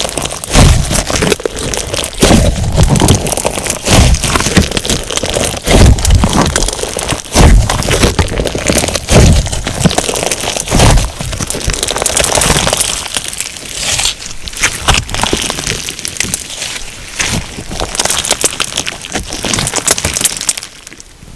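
Crunchy slime full of sugar beads being squeezed and pressed by hand: dense crackling and popping of the beads, with heavier squishes every second or two at first, easing to lighter crackling after about twelve seconds.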